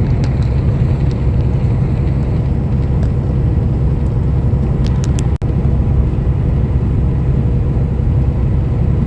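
Semi-truck cruising on the highway: a steady low rumble of engine and road noise, broken by a very brief gap about five seconds in.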